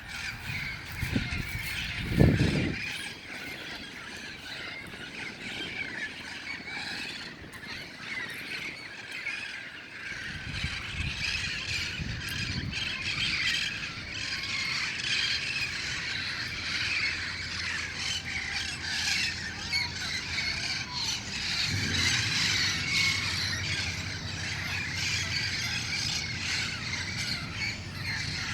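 A flock of wild parrots squawking and screeching continuously, many calls overlapping. A loud low thump about two seconds in, and a low rumble joins about three quarters of the way through.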